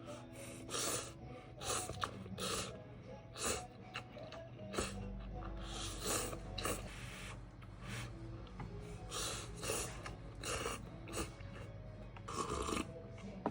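A person slurping noodles and eating close to the microphone, in a dozen or so short, sharp slurps spaced irregularly about a second apart.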